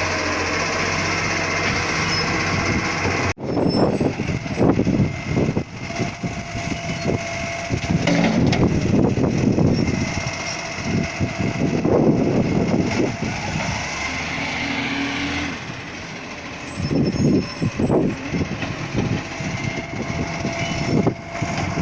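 Garbage truck running. About three seconds in there is an abrupt cut to a louder, uneven stretch of repeated engine surges under a steady whine.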